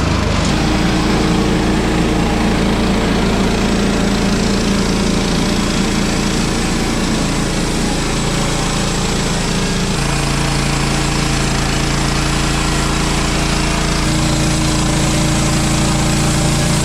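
A small engine running steadily, its note shifting about ten seconds in and again a few seconds later.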